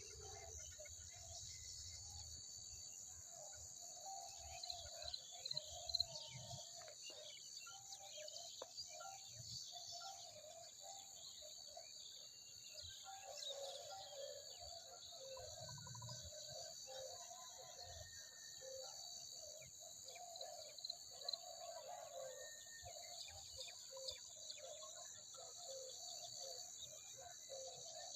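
Faint outdoor insect chorus, a steady high trilling like crickets, over runs of short low calls repeated a few times a second from a frog or bird, with a few sharp clicks.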